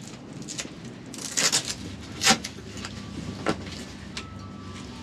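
Handling noises from fitting a pole into a canvas truck-bed tent: a few brief scrapes and knocks, a cluster about one and a half seconds in and single sharper ones a little past two and at three and a half seconds, over a faint steady hum.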